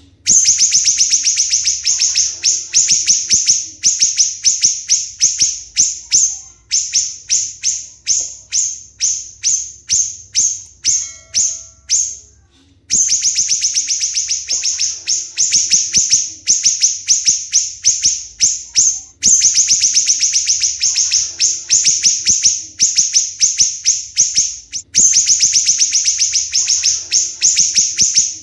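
A songbird singing a loud, fast, chattering song: rapid high notes run together in phrases of a few seconds, with a pause of about a second near the middle. It is a 'gacor' song recording of the kind played as masteran to tutor caged songbirds.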